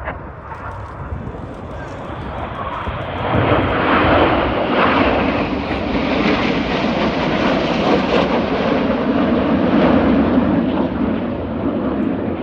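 Aircraft flying past: engine noise builds to loud about three seconds in, holds, then begins to ease off near the end.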